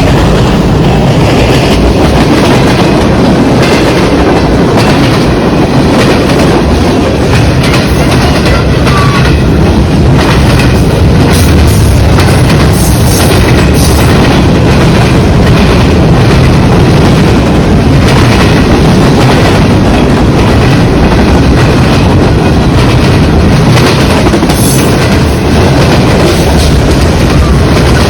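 CN freight train rolling past close by: steady loud rumble of the cars with wheels clicking over the rail joints.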